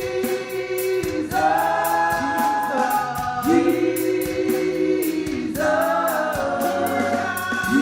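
Gospel worship song: voices singing long, slow held notes over instrumental accompaniment with a steady ticking beat.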